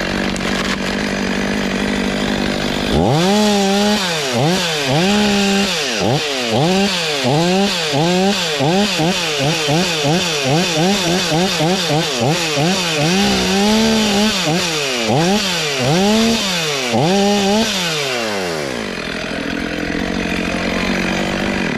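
Two-stroke chainsaw cutting through beech wood. It runs steadily at high revs at first. From about three seconds in, its pitch dips and recovers over and over as the chain bites and bogs in the cut, then the revs ease off near the end.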